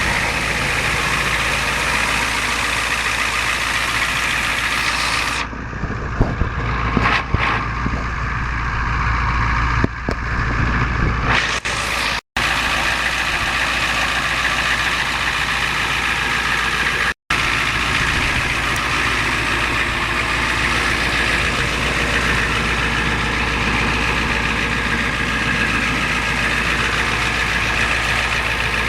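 1992 Ford F350's turbo diesel engine idling steadily. Partway through it sounds duller for several seconds, with a few knocks, and the sound cuts out completely twice for an instant.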